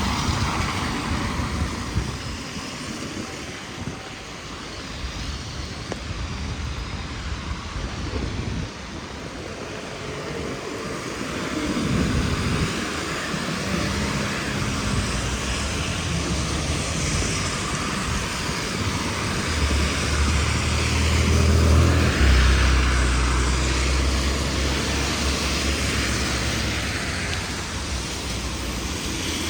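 Steady hiss of heavy rain, with the low rumble of a passing vehicle swelling from about twelve seconds in and loudest about two-thirds through.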